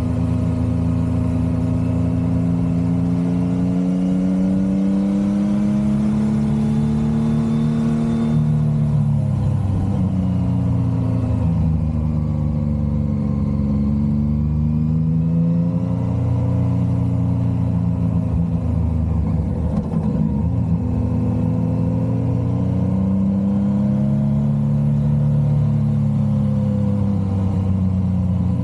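Motorcycle engine running under way, its revs climbing for several seconds and then dropping, over and over, as the rider accelerates, shifts and slows.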